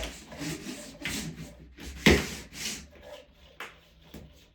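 Heating cable being pressed into the studs of a Schluter Ditra-Heat plastic membrane: a run of short rubbing, scraping strokes. The loudest comes about two seconds in, and they thin out toward the end.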